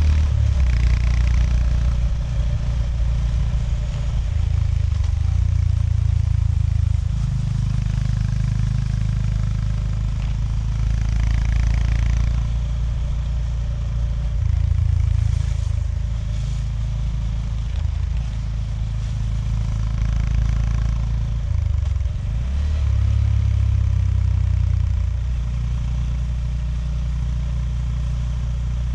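Honda GB350S's single-cylinder engine running under way on the road, its low note rising and falling several times with throttle and gear changes.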